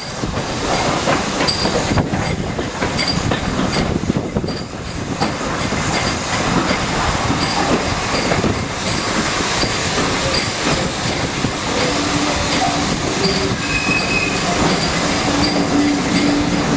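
Train running along the rails, with continuous track and wheel noise and some wheel squeal; a few short steady tones come in during the second half.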